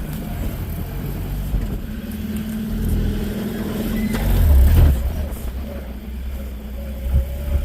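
A 4x4 vehicle's engine running as it drives off-road. The engine swells louder about two-thirds of the way in, with a sharp knock at its peak, and there is a brief loud bump near the end.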